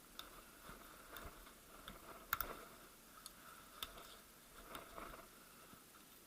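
Scattered light clicks and taps of small metal gearbox parts being handled, with one sharper knock about two seconds in.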